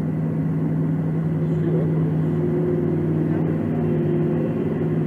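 Vehicle driving at steady speed: a constant low engine hum over road noise, with no change in pitch or level.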